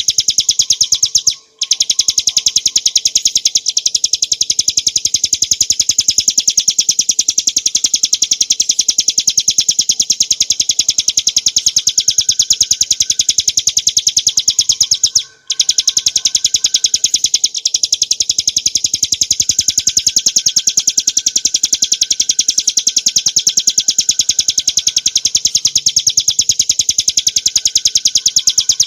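Ciblek gunung, a small prinia, singing a continuous rapid-fire run of high, fast-repeated notes. The song breaks off briefly twice, about a second and a half in and again about fifteen seconds in.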